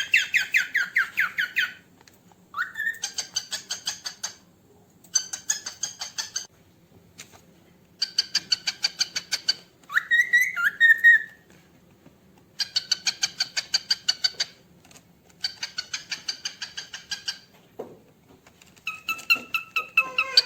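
Cockatiel calling in a series of bursts of fast, rapid chirps, about ten to the second, each burst a second or two long with short pauses between them, and a couple of short rising whistles mixed in.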